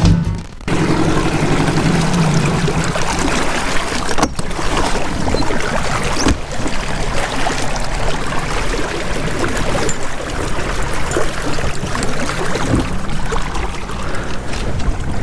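Water rushing and splashing along a small sailboat's hull as it moves through the water, a steady noisy wash with small crackles.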